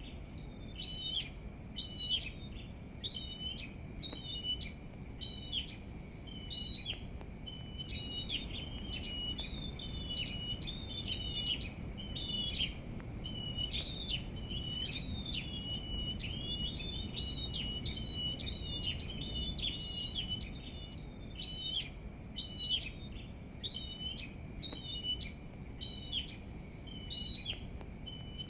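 Small songbirds chirping without pause in short, quickly repeated high phrases, over a low steady background rumble.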